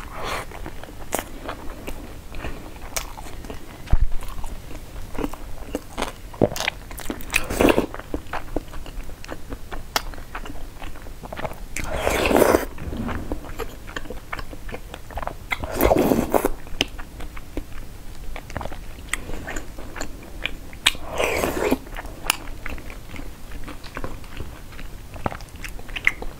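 Close-miked chewing and mouth sounds of a person eating sushi rolls: many small sharp clicks, with a few louder, longer sounds every four or five seconds.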